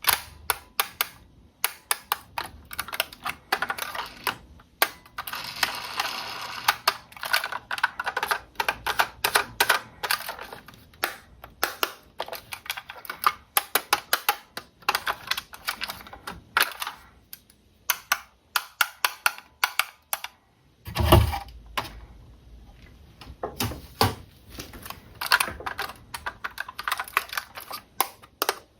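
Hands handling plastic toy parts and packaging: a dense run of small clicks, taps and crinkly rustles, with one heavier thump about two-thirds of the way through.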